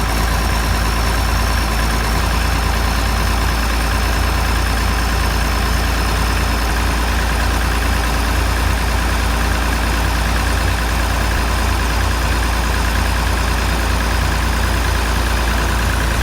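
Heavy diesel engine running at a steady idle, a loud, even low drone with no revving.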